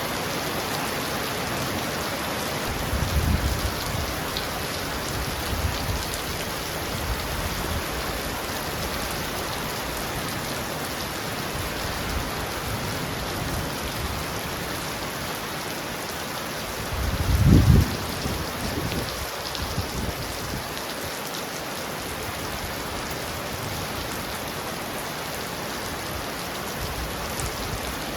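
Heavy rain falling steadily on a roof, a dense even hiss. Brief low rumbles come about three seconds in and again, louder, a little past halfway.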